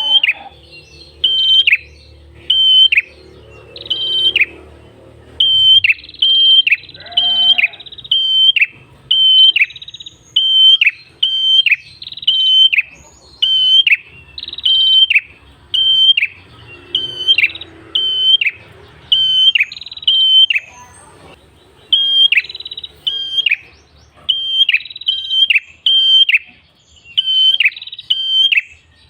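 Red-headed prenjak calling: a long run of short, sharp, high notes, about two a second, with only brief pauses.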